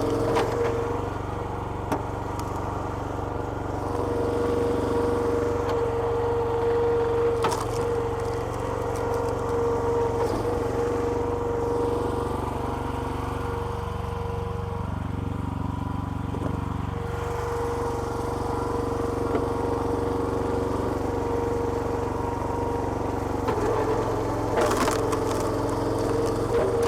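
Small petrol engine driving a homemade hydraulic log splitter, running steadily; around the middle its note sags for a few seconds and then recovers, as when it comes under load. A few sharp cracks, typical of wood splitting, sound over it.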